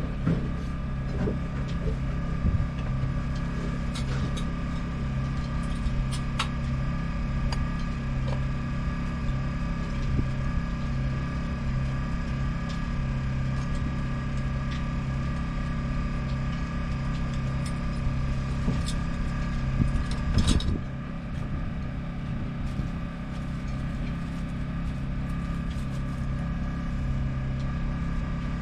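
A motor running steadily with an even hum, with a few light clicks and a short louder knock about twenty seconds in.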